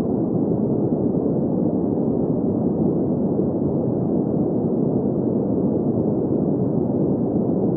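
Steady, unchanging synthetic sleep noise, a muffled, deep hiss with no high end, of the green-noise kind.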